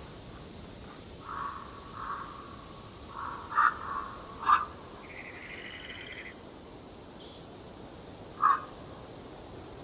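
Forest birds calling: a scatter of short, harsh calls, a few of them loud, with a buzzy trill in the middle and one brief high note near the end, over a steady background hiss.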